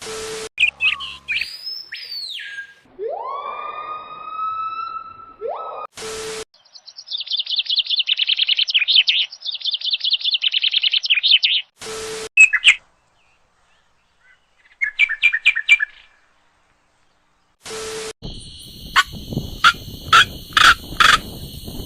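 Birds calling in short separate clips: first whistled notes that slide up and down in pitch, then a long fast chattering trill, then a few short chirps, and near the end sharp chirps over steady high tones. Brief edit clicks divide the clips about every six seconds.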